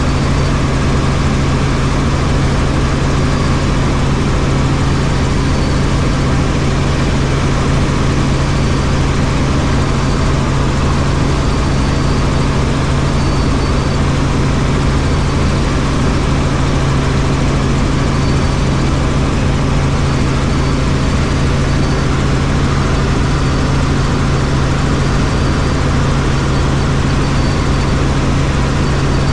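Helicopter in flight: steady engine and rotor noise with a strong low hum that does not change.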